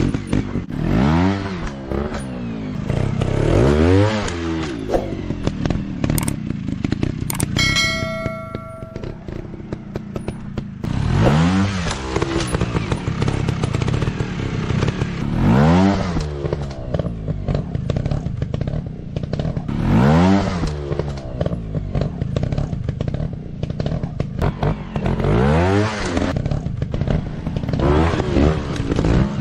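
Trail/dirt-bike engines revving up and dropping back again and again, a rise and fall every few seconds as the bikes work through the course. A brief steady tone sounds about eight seconds in, while the engines ease off.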